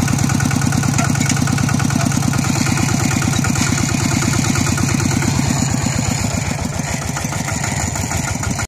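Walk-behind tractor's diesel engine running with a rapid, even beat. It eases slightly about six seconds in.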